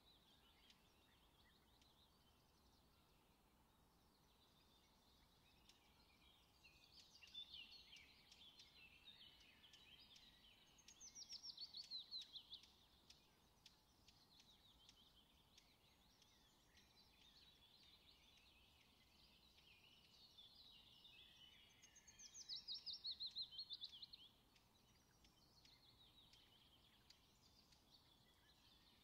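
Faint birdsong: scattered chirps, with two louder rapid trills that fall in pitch, one near the middle and one about three-quarters of the way through.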